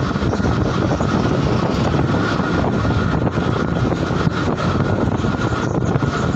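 Mumbai suburban electric local train running steadily at speed, heard from the open doorway: a continuous rumble of wheels on the track and rushing air, with a faint steady high tone above it.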